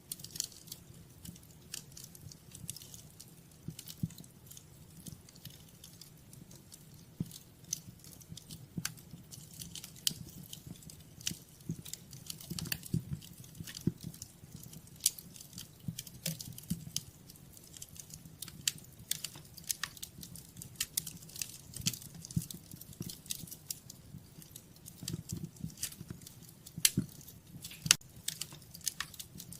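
Wood fire crackling, with many irregular sharp pops and snaps over a low, steady rumble of flame.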